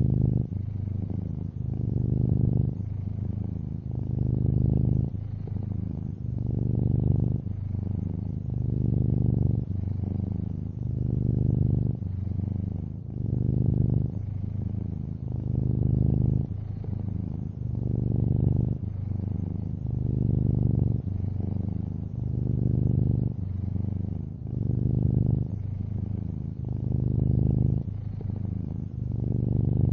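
A long-haired orange tabby cat purring steadily: a deep, low purr that swells and eases in a regular cycle about every two seconds as the cat breathes in and out.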